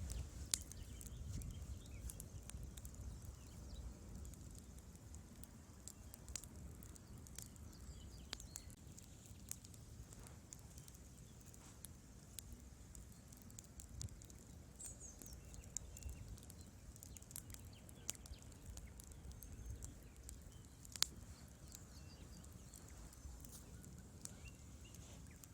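Wood fire crackling in a fireplace: a low rumble of burning logs with irregular small pops and snaps, and a sharp, louder pop about 21 seconds in.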